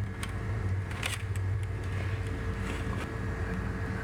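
A steady low hum with a fainter higher tone under it, and a few light clicks and rustles, the sharpest about a second in.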